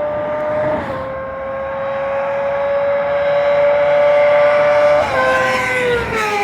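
Suzuki GSX-R600 (K7) inline-four sport bike with a Jardine aftermarket exhaust, held at high revs and growing louder as it approaches. The pitch dips briefly about a second in, jumps up at about five seconds, then falls steadily as the bike passes by.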